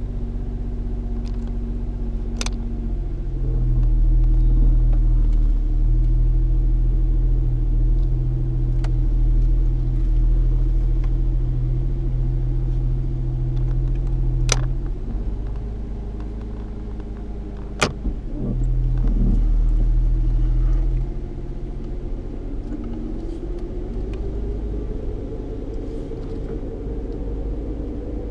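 Ford Mustang 3.8-litre V6 heard from inside the cabin while driving: a steady engine hum over low road rumble that swells louder for two stretches. Three sharp clicks come through, and near the end the engine note rises steadily as the car speeds up.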